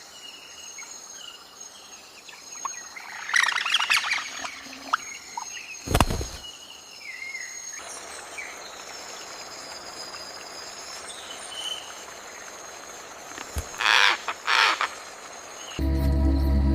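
Wild birds calling and singing over outdoor ambience, with short chirps and whistled glides and a few louder, harsher call sequences. A single low thump comes about six seconds in, and calm music starts just before the end.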